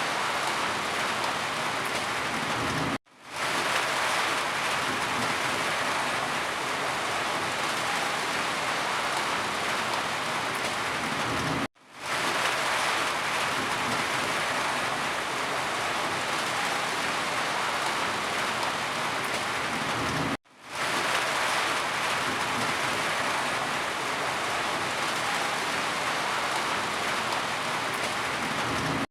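Steady rain, an even hiss of falling water. It cuts out to silence three times, about every nine seconds, fading quickly back in each time.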